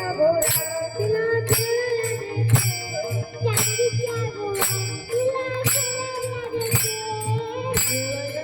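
A boy singing a held, wavering melody over music with jingling percussion and a steady beat of about one strike a second.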